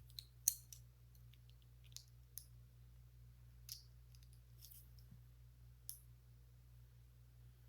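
Plastic Lego pieces clicking as they are handled and pressed onto a build: a scattering of sharp, separate clicks, the loudest about half a second in, over a faint steady hum.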